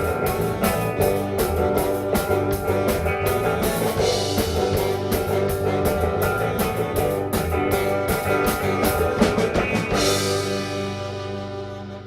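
Live rock band with drum kit and guitars playing the instrumental close of a song, ending on a final chord that rings out and fades over the last two seconds.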